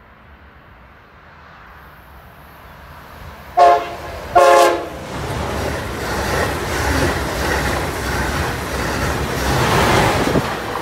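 Amtrak Acela Express high-speed train sounding its horn in two short blasts about three and a half seconds in, the second a little longer. The noise of the train then builds steadily as it approaches and passes close by, loudest near the end.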